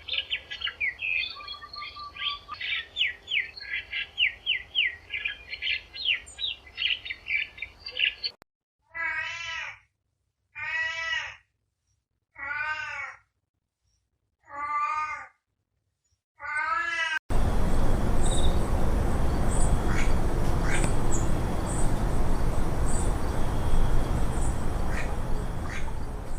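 Rapid high chirping for the first eight seconds or so, then a cat meowing five times, one call every second and a half or so. After that comes a loud steady noise with no clear calls.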